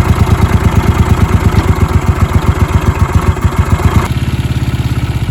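Honda SilverWing GL500 motorcycle engine idling with an even, rapid exhaust pulse. About four seconds in the sound changes suddenly, becoming quieter and smoother.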